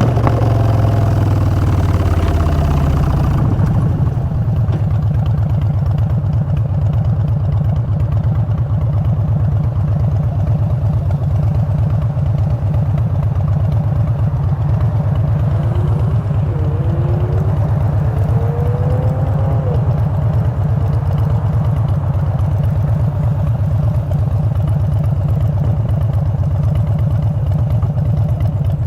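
2016 Harley-Davidson FXDB Street Bob's air-cooled V-twin through Vance & Hines Short Shots exhaust, dropping in pitch over the first few seconds as it slows, then idling steadily.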